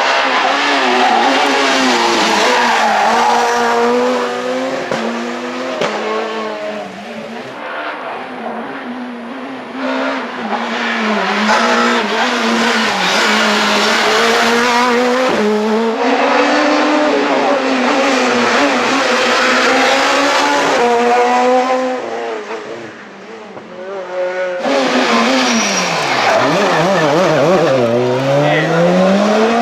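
Super 2000 rally cars' naturally aspirated two-litre four-cylinder engines revving hard on a stage: pitch climbing through each gear and falling on lift-off. Several separate passes follow one another with abrupt cuts between them, the last one dropping low and then climbing again near the end.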